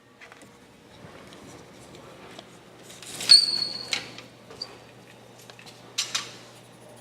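Metal tools being handled and set down: a sharp metallic clang about three seconds in that rings briefly in a high tone, a few light clicks, and another clatter near the end, over a faint low steady hum.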